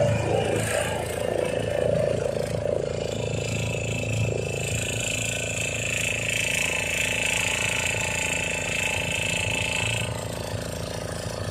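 Motorboat engine running steadily with a rattly low hum. A thin high whine is held for several seconds in the middle.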